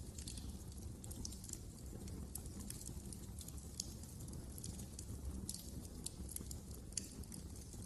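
Wood fire crackling in a fireplace: irregular sharp pops and snaps over a low, steady rumble of flame, with a couple of louder pops about four and seven seconds in.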